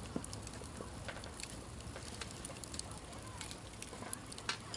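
Wood campfire crackling: irregular sharp pops over a steady low hiss, with a louder pop near the end.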